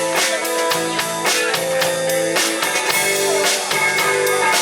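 Live rock band playing an instrumental passage between sung lines: electric guitar and drum kit, with regular drum hits.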